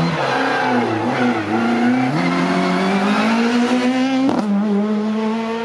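Rally car engine pulling hard: low and uneven revs for the first couple of seconds, then climbing steadily under acceleration, with a quick upshift about four seconds in, after which the revs build again.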